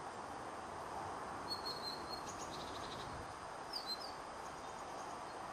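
Small birds chirping a few times over a steady hiss of outdoor background noise: a short chirp and quick twitter in the middle, then two quick falling chirps.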